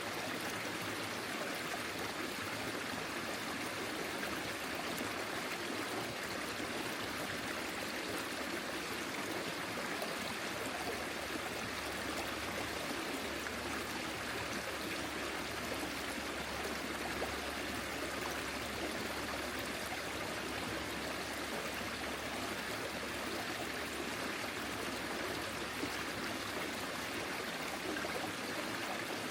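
Forest stream flowing steadily, water running and trickling over stones.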